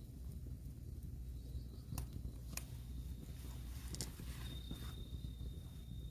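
Firewood fire burning with a low steady rumble and three sharp crackling pops about a second apart in the middle. An insect's steady high trill starts about two-thirds of the way through.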